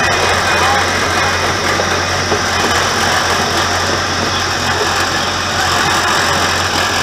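Zoo tour train's engine running steadily with the train rolling along, a constant low hum under a broad rushing noise, heard from an open passenger car.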